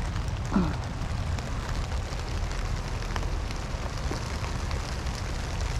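Rain falling, with scattered drop ticks over a steady low rumble. A short falling tone sounds once about half a second in.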